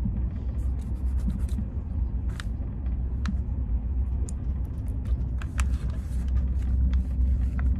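Steady low rumble of a passenger train running, heard from inside the carriage. Small scattered clicks and scratches from a pen and a paper puzzle book being handled sit on top, bunched about a second in and again around five to six seconds in.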